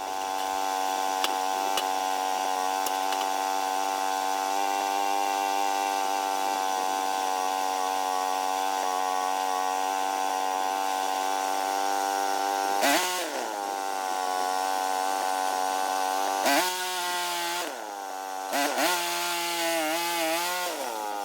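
Small sawmill's engine running steadily at speed. Its pitch dips sharply and recovers about two thirds of the way in, again a few seconds later, and wavers near the end.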